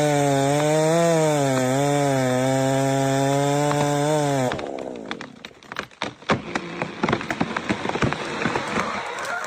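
Chainsaw running at high revs under load, its pitch wavering slightly. About four and a half seconds in it drops away, and a rapid, irregular run of sharp cracks and snaps of breaking wood follows.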